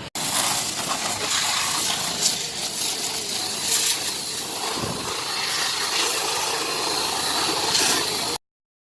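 High-pressure water jet hissing as it sprays a motorcycle during a wash, with brief louder spurts as the spray hits the bike; it cuts off abruptly near the end.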